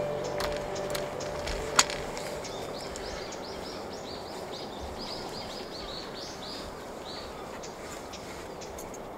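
A bird calling a quick run of short, high notes, about four a second, for roughly four seconds, over a steady rural background hiss. A single sharp click about two seconds in is the loudest sound. The low drone of the departing diesel railcar fades out in the first couple of seconds.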